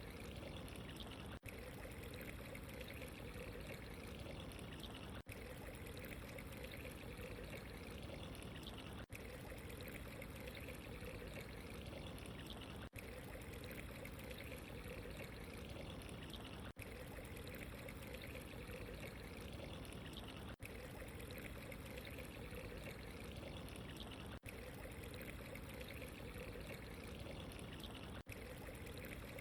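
Steady running, trickling water, broken by a very brief dropout about every four seconds, as if a short recording is looped.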